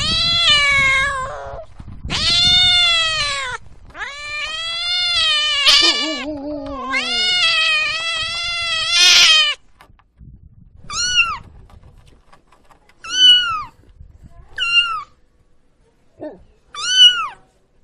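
Domestic cat meowing: several long, drawn-out meows come one after another for the first half. After a short pause, four short, high meows follow about two seconds apart.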